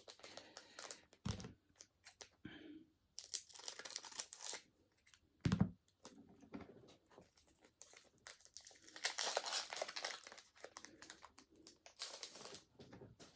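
Foil wrapper of a Pokémon booster pack crinkling and tearing as it is opened and handled, in several rustling bursts, with two short low thumps.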